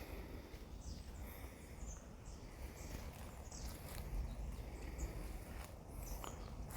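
Outdoor ambience: a steady low rumble of wind on the microphone with faint, scattered short bird chirps and light rustling.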